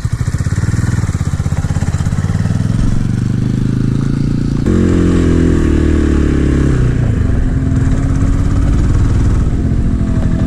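Small 250 cc motorcycle engine running as the bike rides off, its note rising. About halfway through, the engine note changes abruptly and gets louder.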